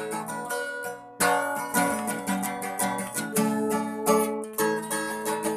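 Instrumental band music with no singing: guitar chords strummed in a steady rhythm, dropping out briefly about a second in before coming back in.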